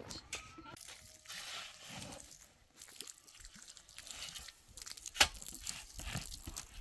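Irregular crunching, rustling and clicking of things being handled, with one sharp knock about five seconds in.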